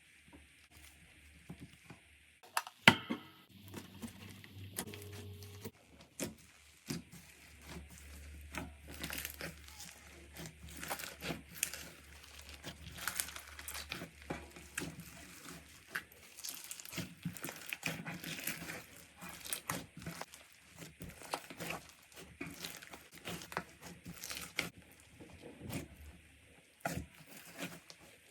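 Slime being squeezed and stretched by hand, making dense, irregular crackling and popping clicks, with one sharp loud snap about three seconds in.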